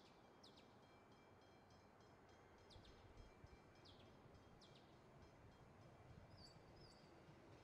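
Near silence with faint bird chirps: short, high, quickly falling whistles heard several times.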